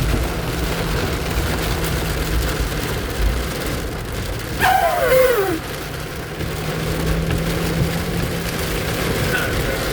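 Heavy rain beating down on a vehicle, with a steady low engine and road hum beneath. About halfway through, a short tone slides downward over about a second.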